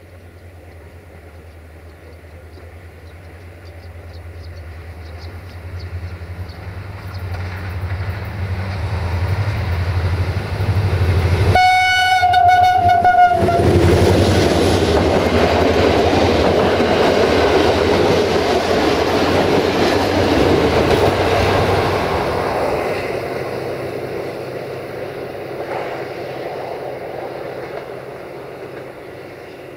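A CFR class 64 GM diesel locomotive hauling a passenger train approaches with its engine droning and gives one horn blast of about two seconds, a little before midway. The coaches then pass with wheels rumbling and clattering over the rail joints, and the sound fades as the train moves away.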